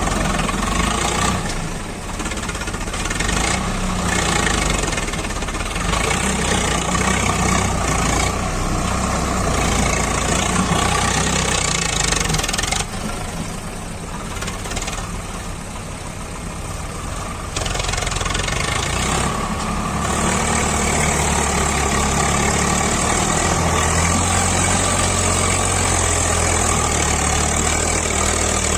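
Swaraj 744 FE tractor's diesel engine running under load as it works through soil. It eases off for a few seconds around the middle, then settles into a steady run.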